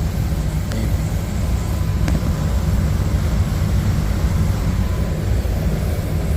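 R-410A air-conditioning system running steadily, a continuous low rumble from the compressor and fan, with a faint steady tone above it. The system is running restricted, which the technician puts down to an oil-logged evaporator coil or a blocked strainer.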